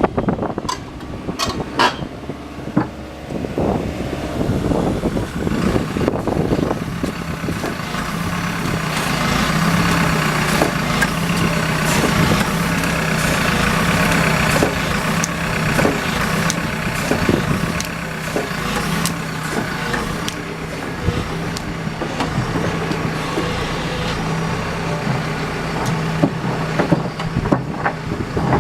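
JCB JS145LC tracked excavator's diesel engine running steadily, its note swelling for a stretch in the middle, with repeated clanks and knocks from the machine working.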